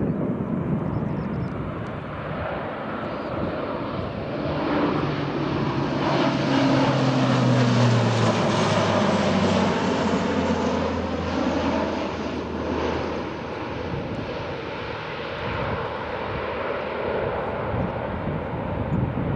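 Military aircraft flying past overhead. The engine noise builds to its loudest about eight seconds in, then fades, and its low engine tone drops in pitch as the aircraft passes.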